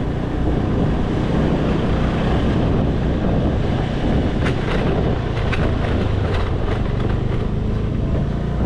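Motorcycle taxi running steadily while riding, its engine hum mixed with wind buffeting the microphone, with a few short ticks about halfway through.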